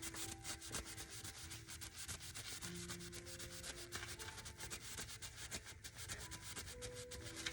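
Scotch-Brite abrasive pad scrubbing a furnace flame sensor rod in rapid back-and-forth strokes, cleaning off the buildup that was making the flame drop out.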